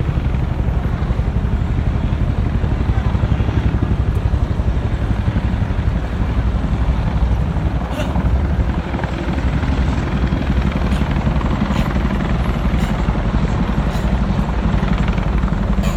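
Helicopters flying overhead, their rotors beating in a steady, loud, rapid pulse that stays even throughout.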